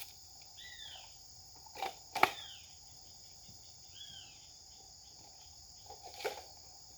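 Steady high-pitched insect chorus, with three short arching bird calls. Sharp clicks about two seconds in, the second one loudest, and another near six seconds.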